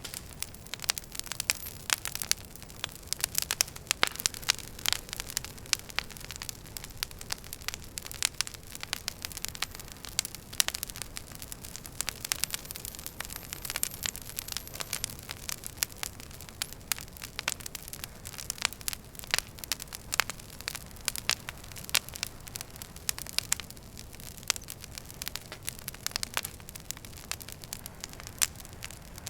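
Wood fire crackling in a fireplace: a dense, irregular run of sharp pops and snaps over a low, steady rush of burning.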